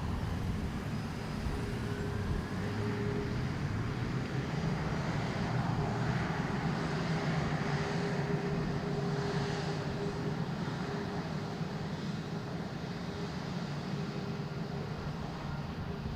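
Jet airliner engines at takeoff power: a steady rumble with a hum over it, swelling a little about halfway through and then easing off slightly.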